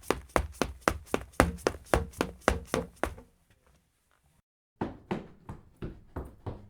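Running footsteps, about four to five quick, sharp footfalls a second, fading out about three seconds in. After a short silence a second recording of running footsteps starts, somewhat softer and at about four steps a second.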